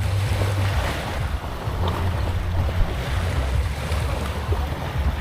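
Waves washing on a beach with wind buffeting the microphone, a steady low rumble under the hiss of the surf.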